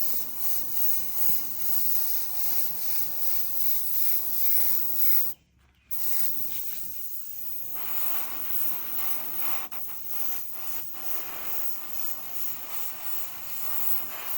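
Paint being sprayed in a steady hiss, cutting out briefly a little over five seconds in and then starting again.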